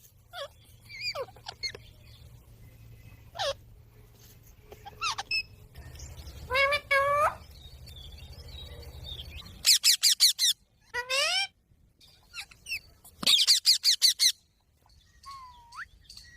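Pet green parrot calling: scattered short squawks, then two rapid runs of sharp repeated calls about ten and thirteen seconds in. A low hum sits under the first part and stops suddenly.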